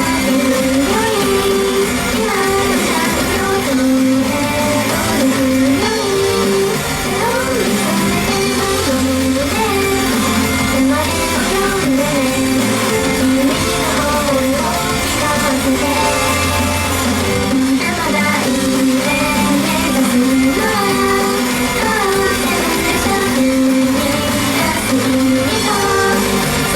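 Idol pop song performed live: female group vocals sung over a loud, steady rock-band-style track with strummed electric guitar.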